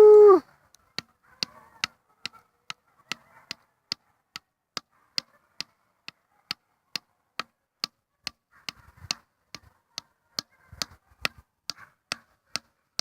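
A dog's drawn-out howl cuts off about half a second in. After it comes a steady run of sharp clicks, about two to three a second.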